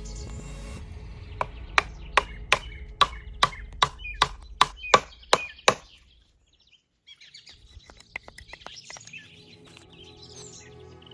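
A quick run of a dozen or so sharp chopping strikes on wood, about three a second, each ringing briefly. They stop about halfway through, and after a moment's hush birds chirp with a few light taps. Background music plays throughout.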